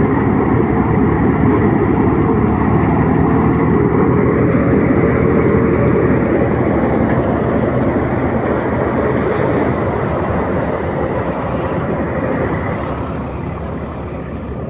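Tractor engine running steadily, growing a little quieter over the last few seconds.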